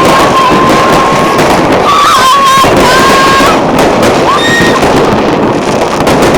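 Fireworks going off continuously: dense crackling and repeated bangs, with several held whistling tones a second or so long rising over the din.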